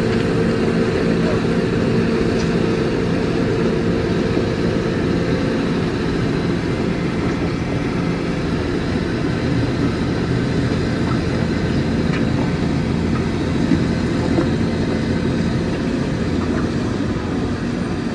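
Truck engine running steadily under load as the truck crawls slowly along. It makes a constant drone with an even pitch.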